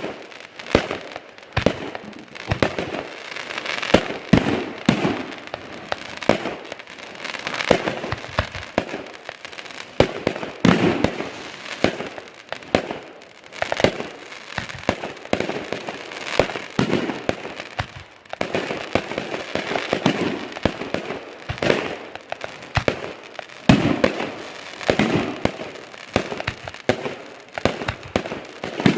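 Consumer fireworks going off continuously: a rapid string of sharp bangs and booms with crackling in between, several loud reports every second or two.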